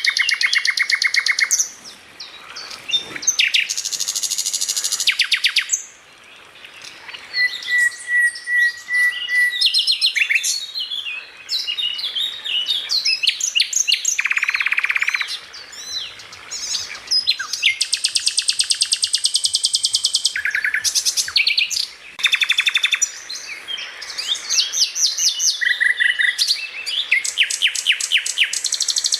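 Songbird tutor recording (masteran): a dense medley of songbird calls in which fast buzzy trills, chattering phrases and a short run of whistled notes follow one another with hardly a pause.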